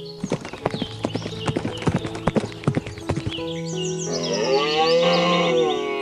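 Hooves clopping in a quick irregular run for about three seconds, then a cow's long moo, over background music.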